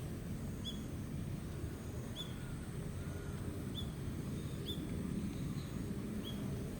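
Small bird chirping, five short high chirps about a second or more apart, over a steady low outdoor rumble.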